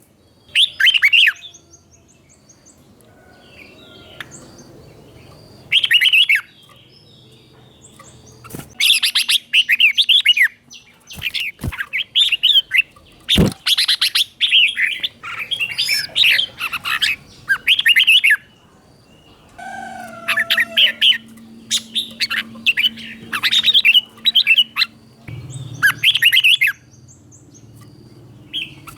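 Red-whiskered bulbul singing short, clear warbled phrases, sparse at first and then in quick succession from about nine seconds in.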